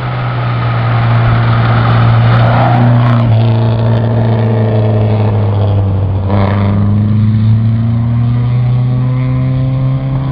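Historic rally car engine running hard at high revs, a steady engine note that changes abruptly twice and then climbs slowly in pitch in the second half.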